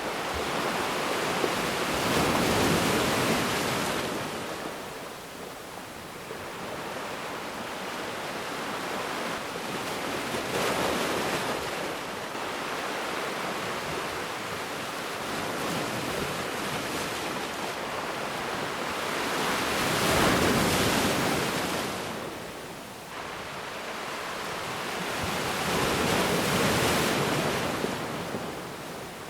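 Ocean waves washing onto a beach: a steady hiss of surf that swells four times into louder surges, each a few seconds long, then ebbs.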